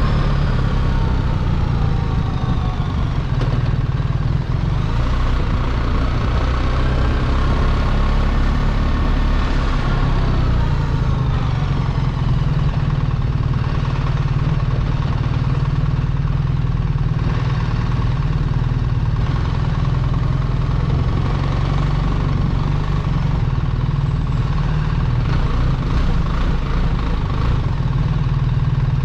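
BMW R1300 GS's boxer-twin engine running on the move under a steady low rumble, its pitch falling and rising a couple of times as the revs change.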